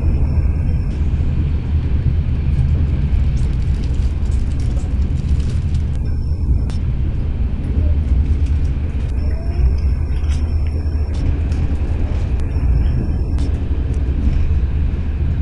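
Passenger train in motion heard from inside the carriage: a steady low rumble of wheels on rails and running gear, with a few faint clicks.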